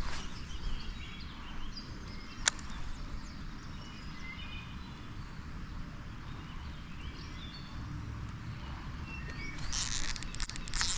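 Small birds chirping in short scattered calls over steady outdoor background noise. A single sharp click comes about two and a half seconds in, and a louder rush of noise starts near the end.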